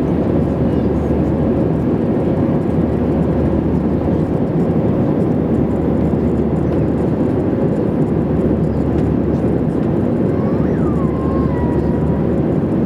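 Steady engine and airflow noise inside a jet airliner's cabin, low and even with a faint constant hum. A brief faint gliding tone rises and falls about ten seconds in.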